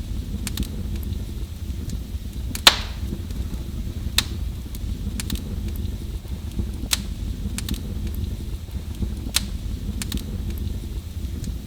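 Wood fire burning in a fireplace: a steady low rumble of flames with irregular sharp crackles and pops, the loudest a bit under three seconds in.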